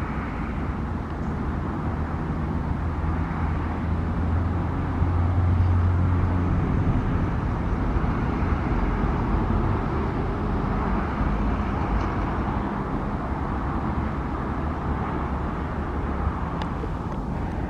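Steady low engine drone with a deep hum, loudest about five to seven seconds in, cutting off at the end.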